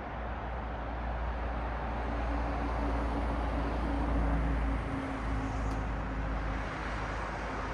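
Cars passing on a city street: steady road noise and low engine rumble that swells to its loudest about halfway through as a vehicle goes by, then eases off.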